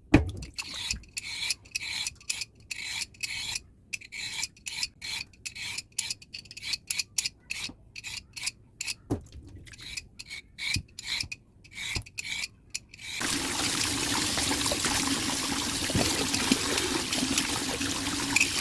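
Vegetable peeler scraping the skin off a burdock root in quick, repeated rasping strokes, a few per second. About two-thirds of the way in the scraping stops and a tap starts running steadily.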